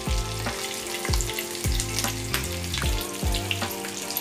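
Stuffed bell peppers sizzling and crackling in oil on a flat tava griddle, the spluttering eased now that the peppers' water has cooked out. A spatula knocks and scrapes on the griddle every half second or so as they are turned.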